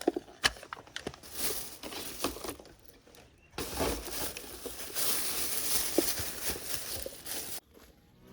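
Rustling and crinkling handling noise with a few sharp knocks, turning into a denser, steady rustle from about three and a half seconds in that stops abruptly near the end.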